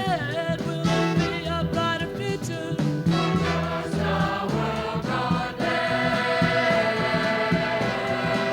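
Gospel choir singing with instrumental accompaniment, moving through a melodic phrase and then holding one long sustained chord for the last few seconds.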